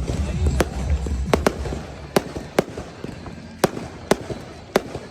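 Fireworks going off: a series of sharp cracks and bangs at uneven intervals, roughly two a second, over a low rumble that fades out in the first couple of seconds.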